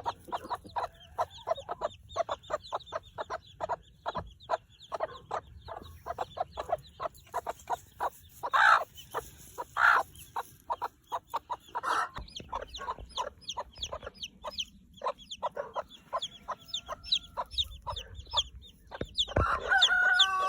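A flock of young broiler chicks peeping continuously: many short, high, falling peeps overlapping, with a few louder calls in the middle and a longer, steadier call near the end.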